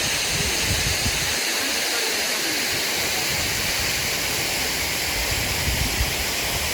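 Waterfall: a steady, dense rush of falling water, with irregular low rumbles underneath.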